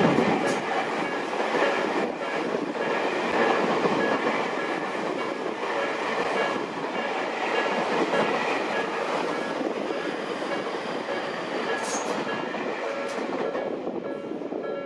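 An electric Tobu Skytree Line train passing over a level crossing, a steady rush of wheel and rail noise with some clicking from the rail joints. The crossing's warning bell keeps ringing through it, its tones plainest near the start and again near the end as the train noise eases.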